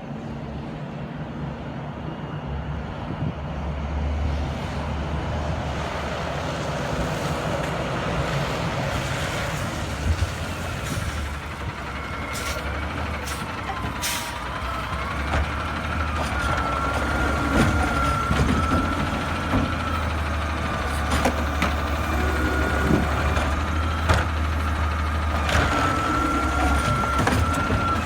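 Garbage truck's diesel engine running and growing louder as the truck draws near. About halfway in a steady high whine sets in, with several short, sharp clanks or air hisses over it.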